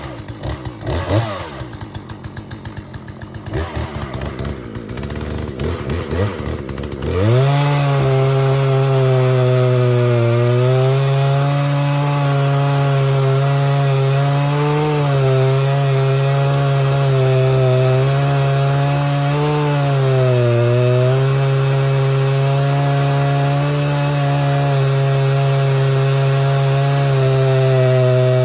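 Chainsaw cutting through a fallen oak tree. It runs unevenly at low revs for about seven seconds, then goes to full throttle and holds there, its pitch dipping briefly now and then as the chain works through the wood.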